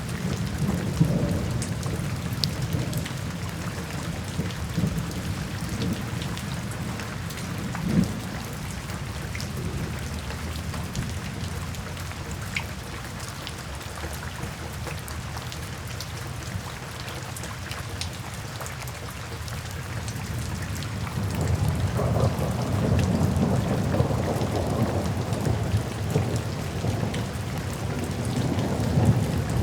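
Steady rain falling, with rolling thunder. A low rumble fades over the first few seconds, a single sharp crack comes about eight seconds in, and the thunder builds again about two-thirds of the way through.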